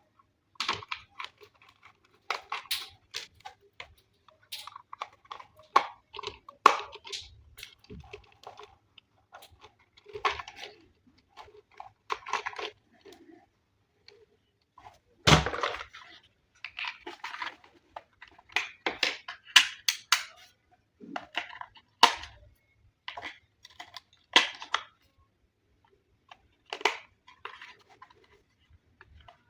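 Irregular crinkling, rustling and clicking as toy packaging and parts are handled, with short gaps between the noises.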